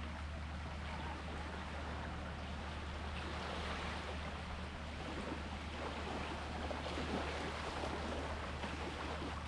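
Sea water lapping and splashing in small irregular ripples, over a steady low hum.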